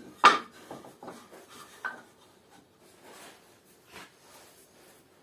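Wooden rack pieces being handled and set in place: one sharp wooden knock just after the start, then light rubbing and scattered small clicks.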